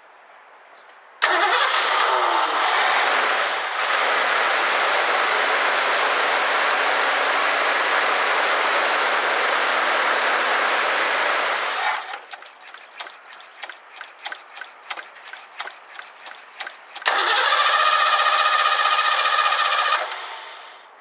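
1984 Ford Mustang GT350 engine catches, runs for about ten seconds and dies. After a few seconds of scattered light clicks it runs again for about three seconds and cuts out. The engine keeps shutting off, a fuel-supply problem that the mechanic traces to the carburetor's float bowl not filling.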